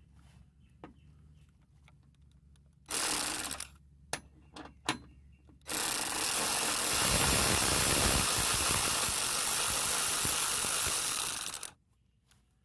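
Handheld power tool running on the running-board bracket bolts: a short run of under a second, a few clicks, then a steady run of about six seconds that stops suddenly.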